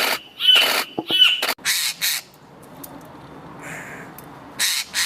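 A bird giving a quick series of loud, harsh calls about twice a second, then a pause of about two seconds and another call near the end.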